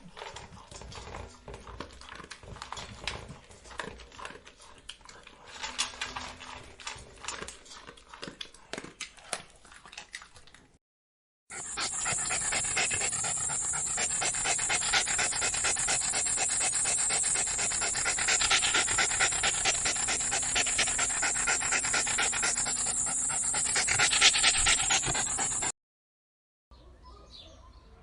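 A dog panting and snuffling, in two clips cut together. The first part is quieter and irregular. From about 11 seconds in, the sound is louder and continuous with quick rapid breaths, then it cuts off near the end.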